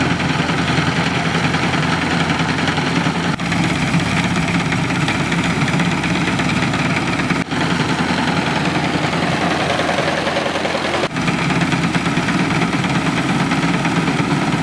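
Diesel tractor engine running steadily while driving a wheat thresher, a continuous machine drone. The sound dips for an instant three times.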